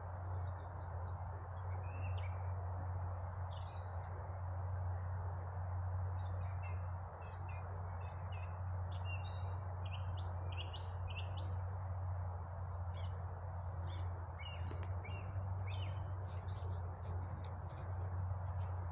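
Small songbirds chirping and calling repeatedly, over a steady low hum and an even hiss. A few short, sharp clicks come near the end.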